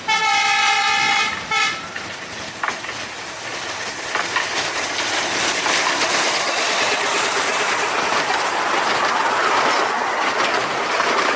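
Miniature 15-inch gauge diesel locomotive sounding its horn: one long blast and then a short one. The train then runs past with its engine and its coach wheels clattering over the rails, growing louder as the carriages go by.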